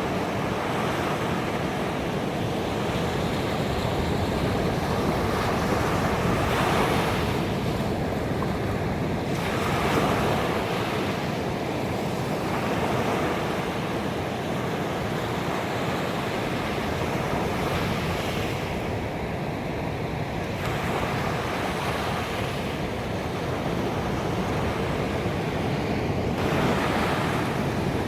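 Ocean waves washing onto a beach: a continuous rush of surf that swells as waves break every several seconds and then eases.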